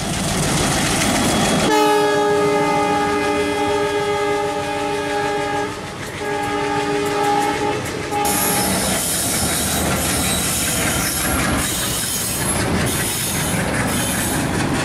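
Passenger train horn: one long blast of several tones at once, a second shorter blast and a brief toot. It then gives way to the loud rumble and clickety-clack of the coaches passing at speed.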